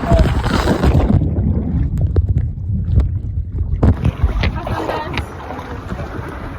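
Rushing water and wind buffeting a camera's microphone on a water-park ride. It is a loud, even rumble that turns muffled for a few seconds from about a second in, then opens up again.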